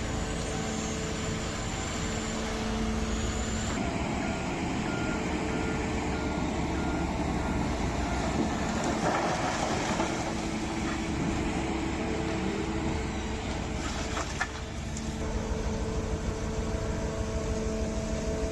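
Diesel engines of heavy earthmoving machines running steadily, with a truck's reversing alarm beeping a few seconds in.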